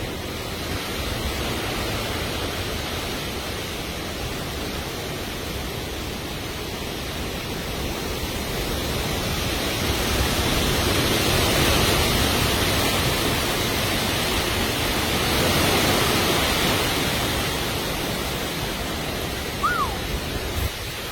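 Storm of heavy rain and gusting wind: a dense steady rush that swells louder for several seconds around the middle. Near the end a brief high chirp and a short knock.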